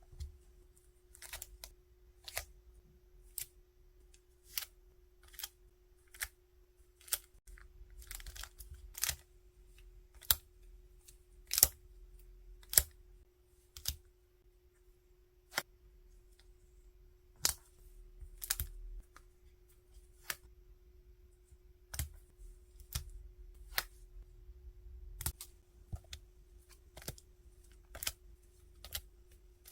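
Packaging supplies being handled on a desk: sharp clicks and taps at irregular intervals, about one a second, with a few brief plastic-and-paper rustles, over a faint steady hum.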